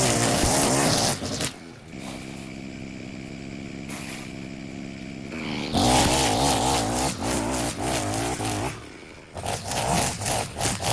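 Small petrol engine of lawn-care equipment running, its pitch wavering under changing load. It drops to a quieter, steadier run for about four seconds in the middle, then comes back up loud.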